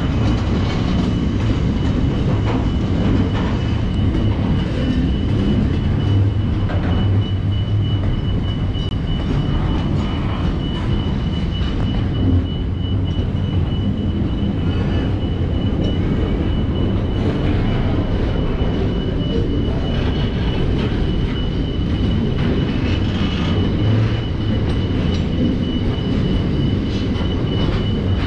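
Container freight train's loaded wagons rolling past at close range: a loud, steady rumble of steel wheels on the rails, with a thin high whine running through it.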